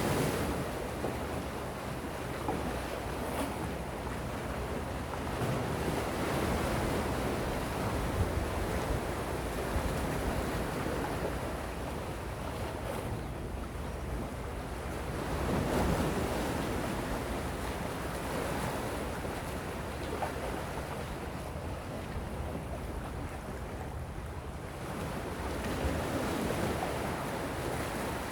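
Gentle ocean waves washing in, a steady surf hiss that swells and eases slowly every several seconds, with the louder swells about 16 s and 26 s in.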